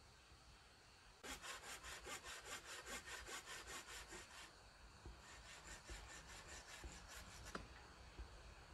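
Hand saw cutting through wood in quick, even back-and-forth strokes, about four or five a second, starting about a second in and stopping shortly before the end.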